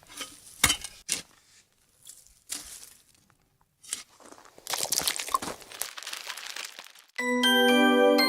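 A series of irregular rustles and crinkles with a few sharp clicks, like paper or plastic being handled. About seven seconds in, music with bell-like chiming tones starts.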